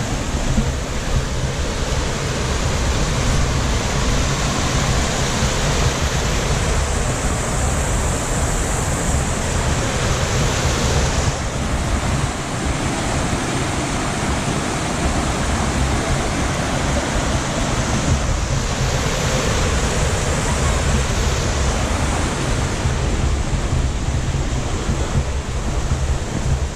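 Waterfall pouring: a loud, steady rush of water, with wind buffeting the microphone.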